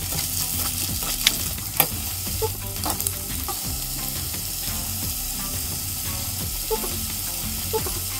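Chanterelle mushrooms and onion frying in butter in a pan, a steady sizzle, with a few sharp clicks of a utensil against the pan in the first three seconds.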